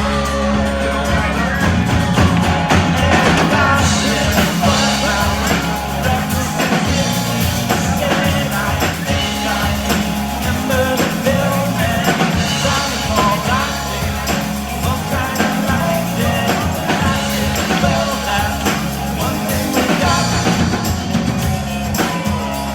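Live rock band playing loudly: drums, bass and guitar with a lead vocalist singing over them.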